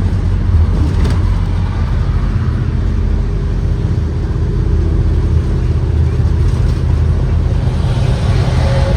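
A 2023 Blue Bird Vision school bus's Ford 7.3L gas V8 running while the bus is under way, heard from inside the bus as a steady low drone with road noise.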